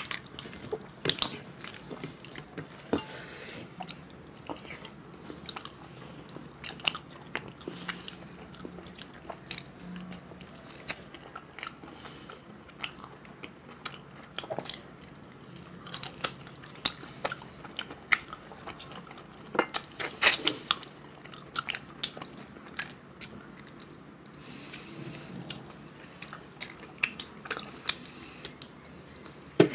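Close-miked mouth sounds of people eating rice and curry by hand: chewing and many irregular wet clicks and smacks, loudest in a cluster about two-thirds of the way through.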